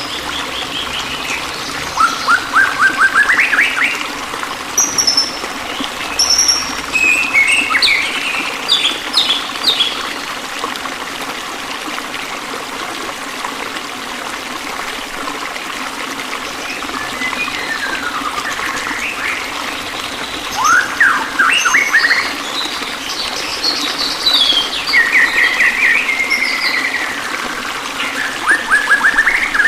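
Small songbirds chirping and giving quick rising trills in bursts, over a steady trickle of running water. The calls thin out in the middle and pick up again near the end.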